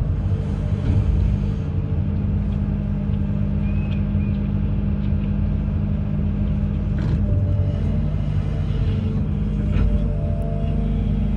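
Amphibious excavator's diesel engine running steadily with a low rumble and a few faint clicks.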